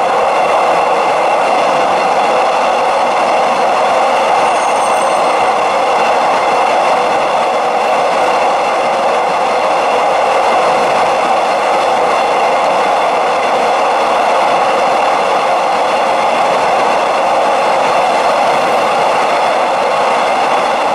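Steady running noise of a train in motion, heard from on board: a constant rush of wheels on the rails with a few faint steady whining tones above it.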